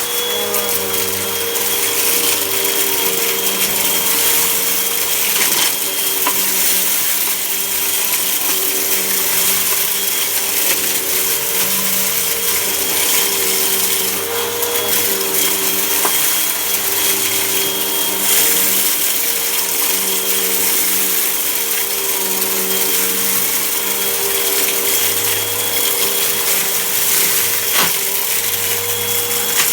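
Vacuum cleaner running steadily with a constant motor whine while sucking up dirt, with a few faint ticks of grit going up the nozzle.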